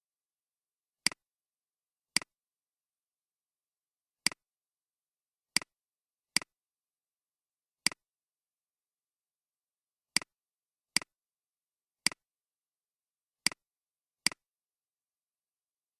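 Computer mouse clicks, about eleven at uneven intervals, each a press followed closely by a softer release, with dead silence between.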